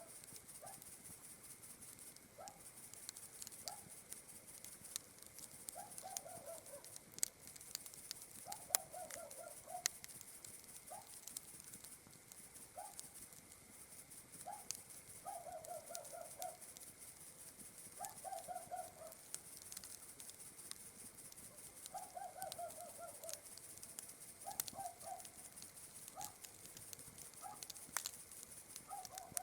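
Campfire crackling with scattered sharp pops, over a steady high chirr of night insects. An animal gives short low calls every second or two, some trilled and some single rising notes.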